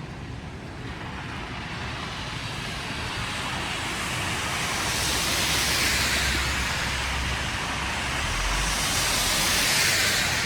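Traffic on a snowy city street: tyre hiss from vehicles passing, swelling twice, about six seconds in and again near the end, with a low engine rumble under the first pass.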